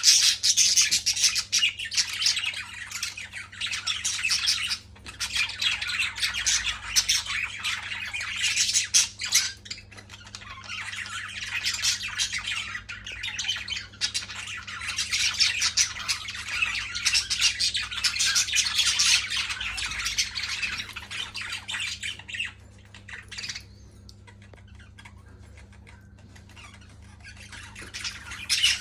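Pet birds squawking and chirping in dense, bursty chatter. It falls quiet for a few seconds near the end, then one loud burst of squawking comes right at the close.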